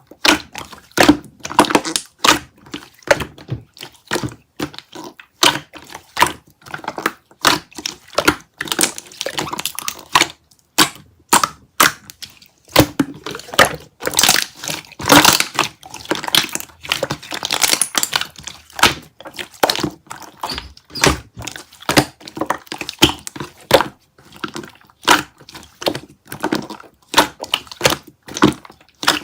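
Slime being squeezed, poked and pressed by hand, giving a fast, irregular run of wet clicks and air-bubble pops, with a denser crackling stretch about halfway through.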